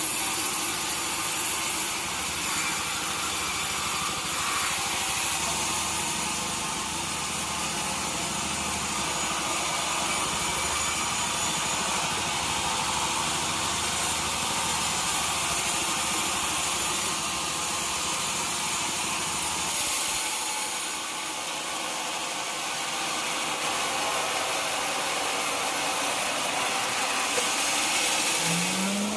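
Sawmill blade cutting through a log with a steady, hissing high-pitched saw noise over a running engine. The low rumble drops away about twenty seconds in.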